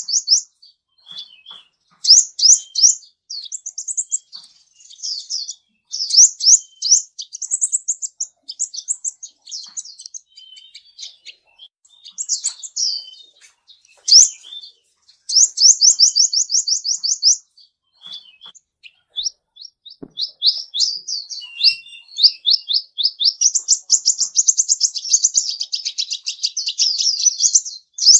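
A songbird singing a long, varied song. Fast high-pitched trills of repeated sweeping notes, each lasting a second or two, alternate with shorter mixed phrases, with only brief pauses.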